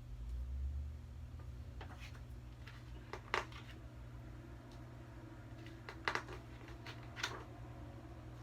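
Picture-book pages being handled and turned: a low bump at the start, then a few short paper rustles and light clicks spread over several seconds.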